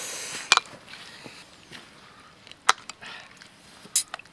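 Three sharp knocks of tableware handled at a meal: a short stretch of pouring noise at the start, then clacks about half a second in, near the middle and near the end.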